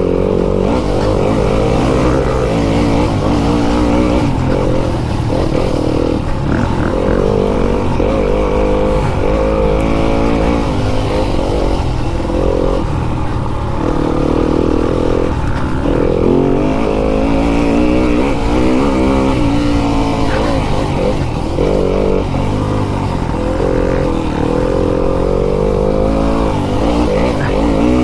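Fantic enduro dirt bike's engine being ridden on a motocross track, its pitch repeatedly rising under throttle and dropping off as it goes through corners and jumps.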